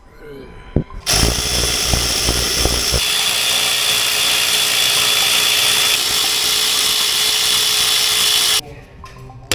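A power tool running for about seven seconds, starting about a second in and cutting off suddenly near the end, heavier and lower for its first two seconds, then running evenly.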